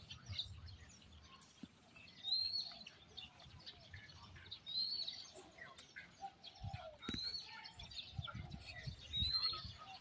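A bird calling, the same short upward-sliding call four times about two and a half seconds apart, among scattered fainter chirps. A few low thumps come in the second half.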